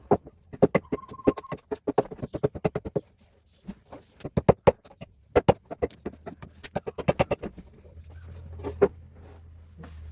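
Rapid runs of sharp taps and knocks, several a second, in bursts through the first three-quarters, thinning to a few knocks near the end.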